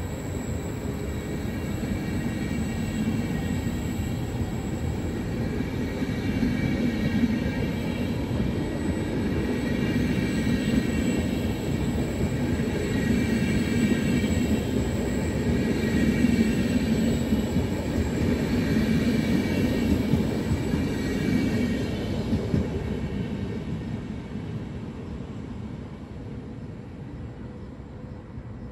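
Trenitalia double-deck regional train rolling past along the platform: a steady rumble of wheels on rails with a faint steady high whine. It grows louder to a peak about two-thirds of the way through, then fades as the train draws away.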